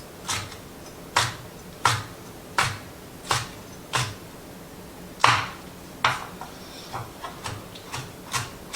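Kitchen knife dicing a bell pepper on a cutting board: separate chops about one every two-thirds of a second, lighter and quicker near the end.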